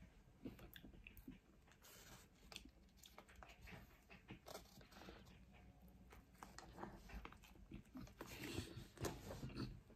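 Faint close-up chewing and mouth sounds of someone eating a soft bread roll filled with chips and fish: scattered soft clicks and smacks, getting busier and a little louder in the last two seconds.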